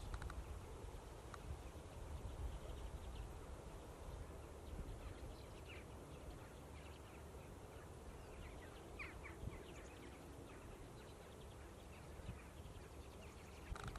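Faint, scattered short calls of a flock of common redpolls, over a steady low rumble.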